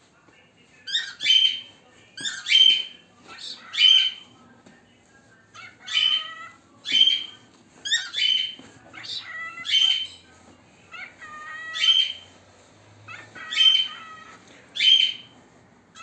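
Pet cockatiel giving loud, shrill calls over and over, about one a second and sometimes two in quick succession, each a short sweeping squawk.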